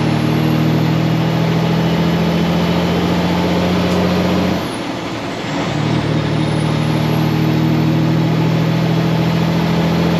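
Semi truck's Cummins X15 diesel running steadily. The engine note drops out for about a second midway through, then picks back up.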